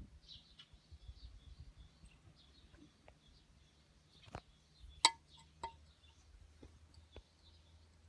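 A few sharp metallic clinks of tools and parts being handled, the loudest about five seconds in, over faint bird chirps.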